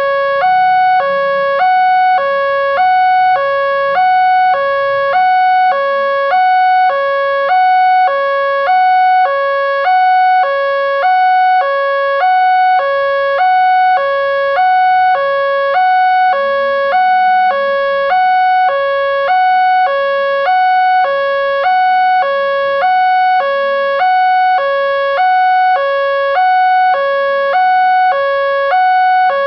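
Electronic warning alarm of an Indonesian railway level crossing sounding continuously, two tones alternating evenly, about one high-low cycle a second: the signal that a train is approaching and road traffic must stop.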